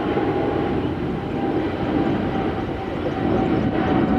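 Jet airliner engines running, a steady roar with a thin, even whine held over it.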